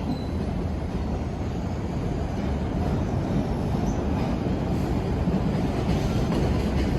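MBTA Red Line subway train rumbling into the station on steel rails, growing slowly louder, with a few faint, brief high wheel squeals.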